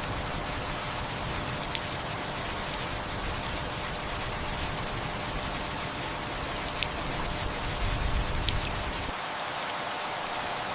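Steady rain falling on a surface, an even hiss with scattered individual drops ticking through it. A faint low rumble of distant thunder swells briefly about three-quarters of the way through.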